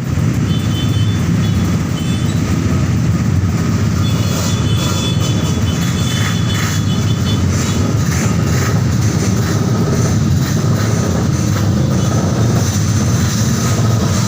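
Steady loud rumble of the KMP Monic 9 ferry's engines heard from on board as the ship comes in to dock, with faint higher sounds scattered over it.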